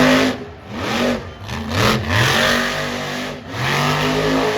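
Monster truck's blown, alcohol-fuelled engine revving in about five throttle bursts, its pitch climbing and falling with each one.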